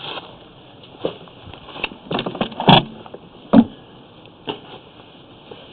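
Several irregular knocks and clatters of hard objects, the loudest about two and a half seconds in and another about a second later.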